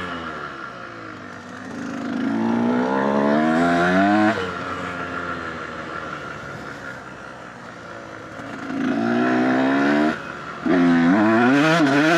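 Dirt bike engine under throttle: it winds up in pitch and is shut off sharply, twice, with quieter stretches of coasting between. Near the end it pulls hard with quick rises and dips in revs.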